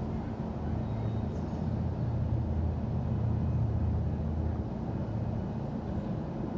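City street traffic: a low rumble of passing vehicles that swells for a few seconds in the middle, then eases back to the steady hum of the street.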